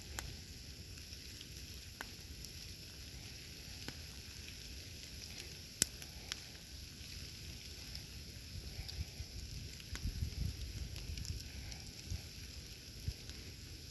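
Wood campfire burning with a steady hiss and scattered crackles and pops, one sharp pop about six seconds in. A low rumble swells briefly around ten seconds in.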